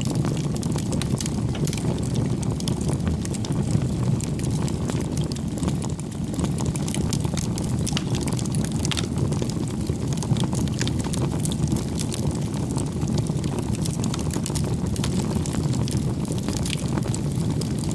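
Campfire burning with a steady low rumble of flames and frequent small crackles and pops from the burning wood.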